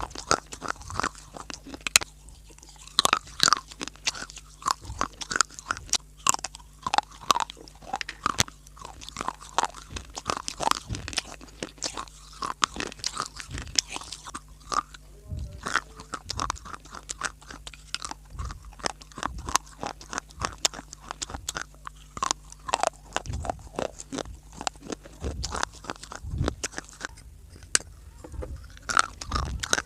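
A person biting and chewing crunchy dry clay (mitti), with dense, irregular crunches and crackles throughout.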